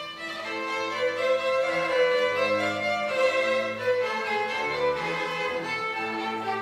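Violin playing a melody of held, sliding notes over lower sustained notes underneath.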